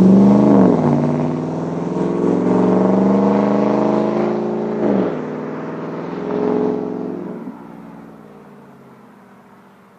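Chevy 5.3 V8 running through a 3-inch straight-pipe exhaust with no muffler or resonator, accelerating under moderate throttle. The pitch climbs, drops suddenly twice as the automatic transmission shifts up, and the sound fades away as the truck drives off.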